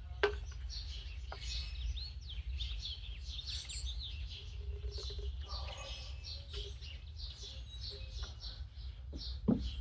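Small birds chirping and twittering continuously over a steady low hum, with a sharp click about a third of a second in and another near the end.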